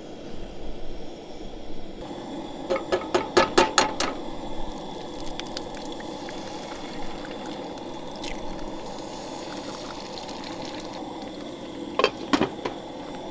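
Food sizzling in a frying pan, a steady hiss, with a quick run of sharp utensil clicks about three seconds in and a couple more near the end.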